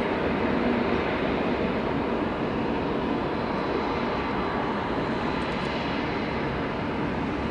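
Jet noise from an Airbus A380-800's four engines, a steady rumble that eases off slightly over the few seconds.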